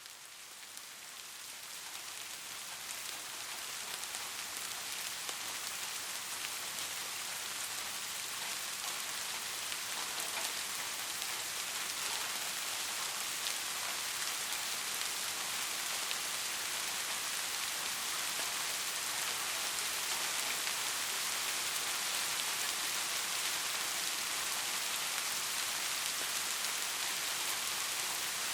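Steady rain falling: a dense hiss with fine pattering drops. It fades in over the first few seconds, then holds even.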